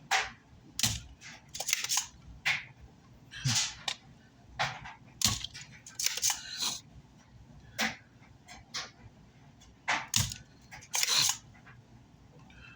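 Irregular sharp scrapes, clicks and snaps of hand tools working at the burnt power-supply section of a car amplifier's circuit board, about a dozen short strokes with pauses between them.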